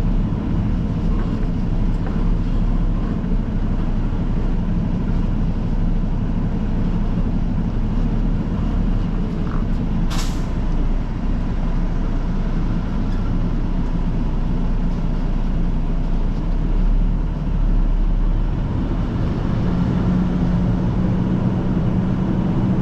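Semi truck's diesel engine running steadily at low speed, with one short sharp hiss of air brakes about ten seconds in. The engine tone steadies and gets a little louder near the end.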